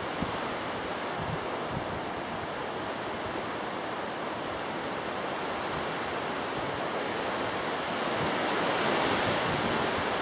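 Strong wind rushing steadily, with gusts buffeting the microphone in low, uneven rumbles; it grows a little louder near the end.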